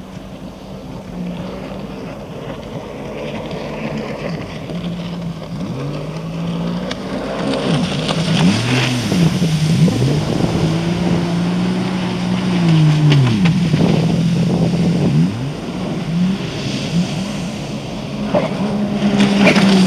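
Sea-Doo RXP 255 jet ski's supercharged engine running, growing louder over the first several seconds as it comes closer. Its pitch rises and falls several times as the throttle is worked.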